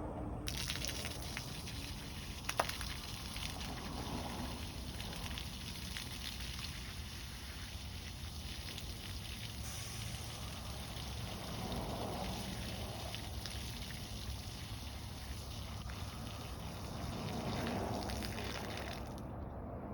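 Water rushing out of a water truck's tree-watering boom, over the low running of the truck's engine. The rushing starts about half a second in and stops shortly before the end, with one sharp click a few seconds in.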